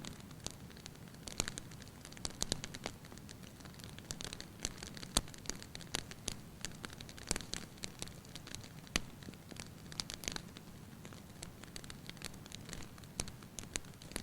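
Wood fire crackling in a fireplace: irregular sharp pops and snaps, several a second, over a faint low rumble of the flames.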